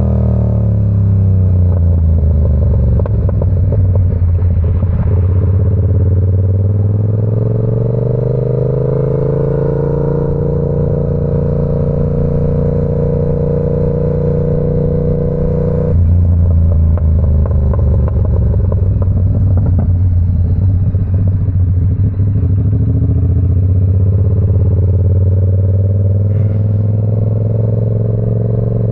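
Yamaha R7's 689 cc parallel-twin engine through an SC Project CR-T exhaust while riding. The revs fall off at first, then climb and hold steady. About halfway through they drop suddenly at a gear change and the sound gets louder, then the revs build slowly again.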